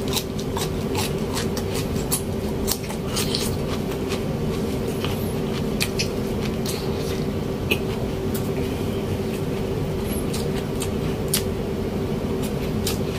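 Close-up chewing and mouth sounds as a raw celery stalk is bitten and eaten, with scattered sharp clicks and smacks. A steady low electric hum runs underneath.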